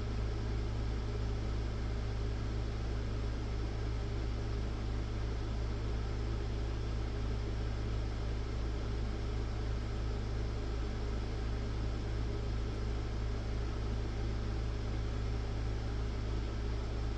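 Steady low hum with an even hiss over it, unchanging throughout, with no distinct events.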